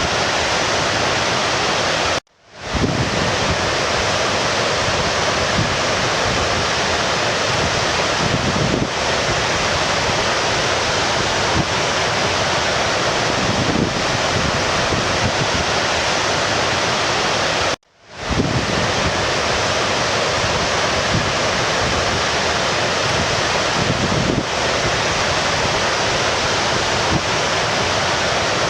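Rushing stream water, a steady dense hiss of flowing water. It cuts out abruptly twice, a couple of seconds in and again past the middle, swelling back in within half a second each time.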